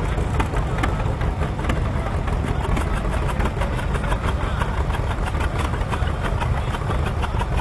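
Tractor engines running in a tractor-pull pit: a loud, steady engine noise with a rapid clatter running through it.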